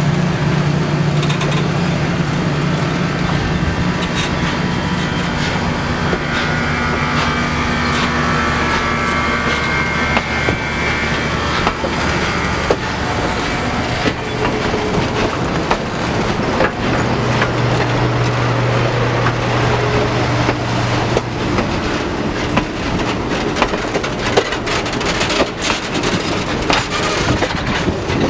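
A passenger train hauled by a steam locomotive and diesel locomotives working past. A steady low engine drone is heard first, then the cars roll by with wheels clicking over the rail joints.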